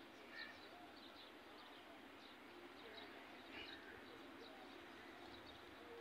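Near silence: faint steady background noise with a few small bird chirps, the clearest about half a second in and again after three and a half seconds.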